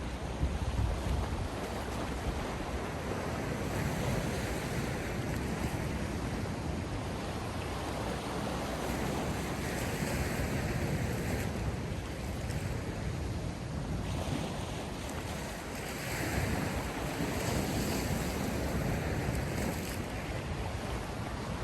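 Sea waves washing in on the shore, a continuous rush of surf that swells and eases every few seconds.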